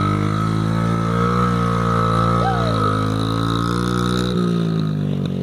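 Honda CRF50F dirt bike's 49cc four-stroke single-cylinder engine running, its pitch rising and falling slightly with the throttle, then dropping lower a little over four seconds in.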